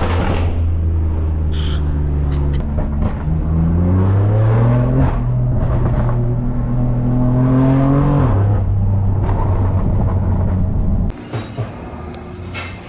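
BMW S55 twin-turbo inline-six in an F80 M3, heard through catless downpipes and an open valved axle-back exhaust: running loud, climbing in revs, holding, then easing off. The sound drops away suddenly near the end.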